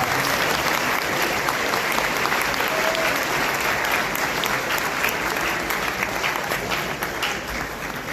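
Audience applauding, a dense steady patter of many hands clapping that tapers slightly toward the end.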